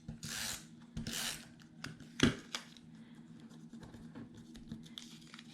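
Paper being handled and slid into place on a layout: two brief swishes, then a sharp tap a little over two seconds in.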